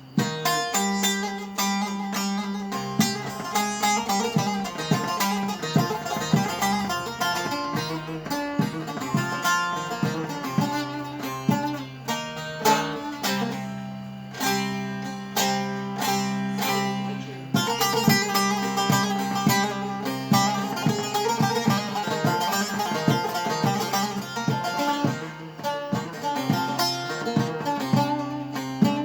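Solo plucked string instrument playing an improvised Turkish folk melody: quick plucked notes over a steady low drone that rings on under the tune.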